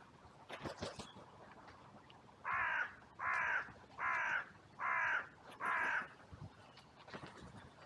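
Carrion crow cawing: five harsh caws in a steady row, each about half a second long.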